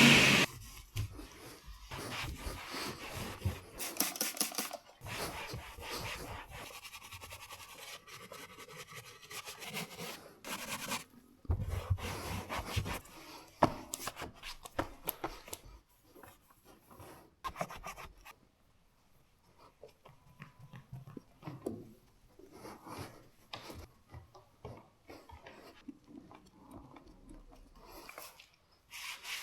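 Intermittent scratchy rubbing and scraping from hand-cleaning a car's surfaces, in short bursts with pauses between them.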